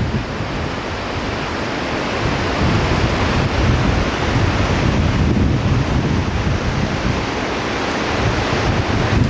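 Steady rush of fast-flowing river water at a river surf wave, with wind buffeting the microphone.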